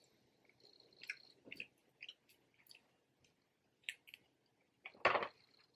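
Close-miked eating of snow crab legs: wet chewing and squishy mouth sounds with scattered small clicks, and one louder sound about five seconds in.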